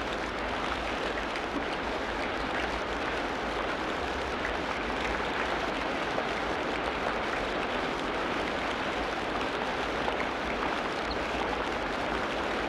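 Tropical rainforest ambience: a steady, dense hiss like rain or running water, with a few faint short calls scattered through it.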